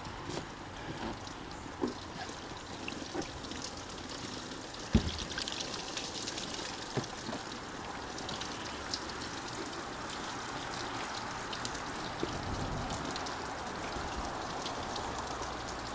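Water pouring and trickling out of a tipped window air conditioner as the rinse water from its hosed coils drains out, with a few light knocks and one sharp thump about five seconds in.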